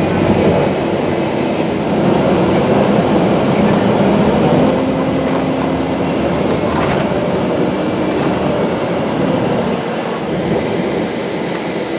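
Interior noise of a moving airport express bus: steady engine and road noise with a faint low hum.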